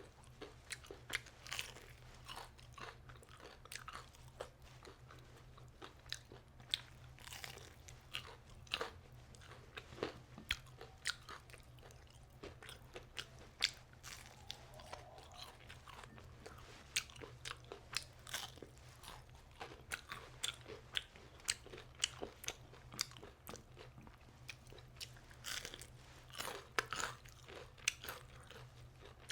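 Close-up eating of crunchy deep-fried aalu chop, potato fritters in a gram-flour batter: crisp bites and chewing crunches crackle in quick succession.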